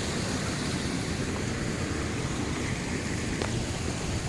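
Steady rushing of a new river swollen by heavy rain, its water running fast and full.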